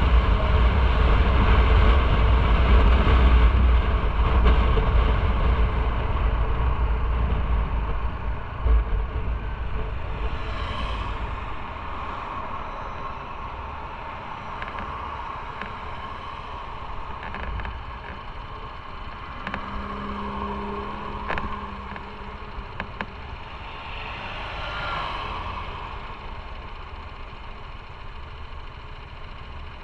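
Motorcycle on the road with heavy wind rumble, easing off over the first dozen seconds as the bike slows, then its engine running quietly at low speed or idle. Two brief swells of noise come through, about 11 and 25 seconds in.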